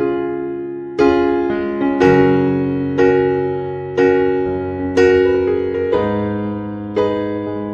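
Background piano music: slow, soft chords struck about once a second, each ringing and fading before the next.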